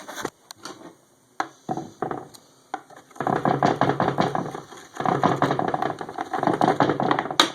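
Metal hand tools knocking a few times, then a long run of dense rattling and clinking, as of loose sockets being rummaged through in a tool box.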